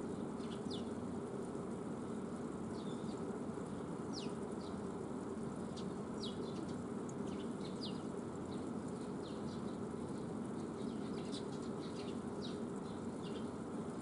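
Wild birds giving short, thin, high-pitched downward-slurred call notes, scattered about one or two a second, over a steady low hum.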